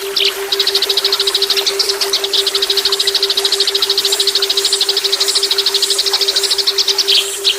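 Recorded songbird 'tembakan' trill: a long, fast run of sharp, evenly repeated high notes lasting about six seconds, with a few separate notes at the start and end. A steady low tone, the added 'sonic brainwave' track, runs underneath. This is masteran song of cililin and ciblek, played to train white-rumped shamas.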